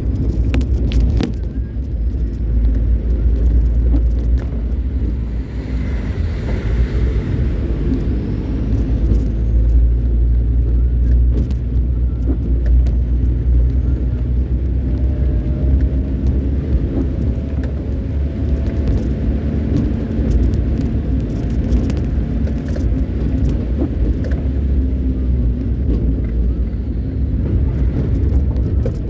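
A car being driven on the road: a steady low engine and road rumble, with scattered sharp clicks and ticks throughout.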